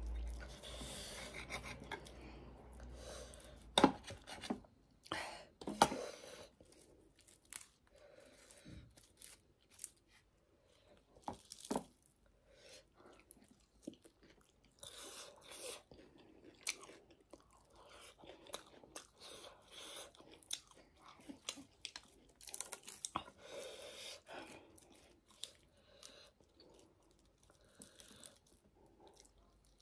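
Close-up eating sounds: chewing with crunchy bites and many sharp mouth clicks, coming irregularly. There are louder bites about 4 and 6 seconds in.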